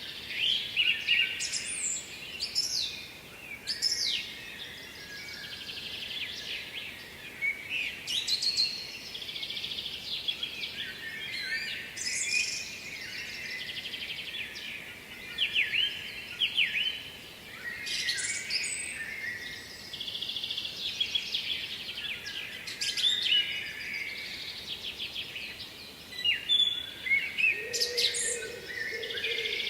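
Birds singing: varied chirps, trills and whistled phrases, one every second or two, over a faint steady background noise. A lower steady note joins near the end.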